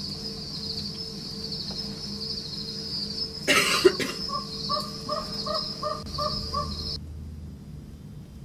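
A nature soundscape: a steady high insect chirring over a low hum, then after a short noisy burst a bird calls about seven times in quick succession, like a crow cawing. The whole soundscape cuts off suddenly near the end.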